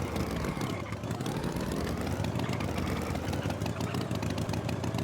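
Tractor engine running at a steady idle, its pitch dipping about a second in and then rising back.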